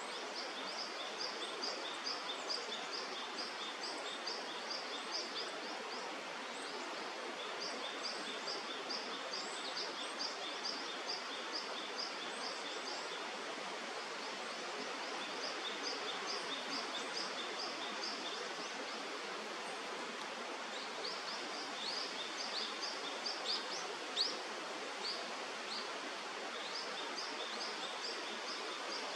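A small bird's high chirps repeated in runs, about three notes a second, with pauses between runs, over a steady rushing background noise. One sharp tick near the end.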